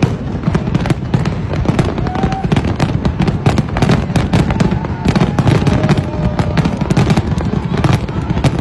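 Large aerial fireworks display: dense, rapid crackling and popping of many shells bursting at once over a constant low rumble of booms, with a few faint whistles.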